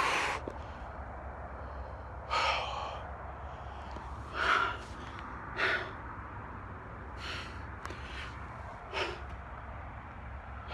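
A person breathing hard close to the microphone: about six sharp, noisy breaths spaced one to two seconds apart.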